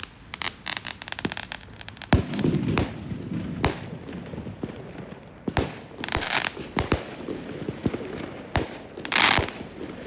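Fireworks display: a string of sharp bangs from bursting shells mixed with rapid crackling, with the loudest bursts about two seconds in and near the end.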